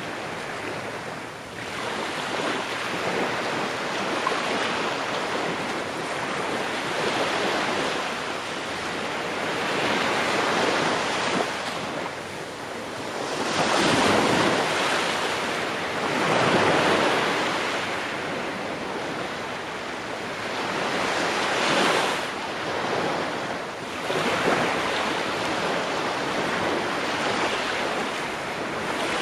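Ocean waves breaking on a shore, a steady wash of surf that swells and recedes every few seconds, with stronger breakers about halfway through and again near 22 seconds in.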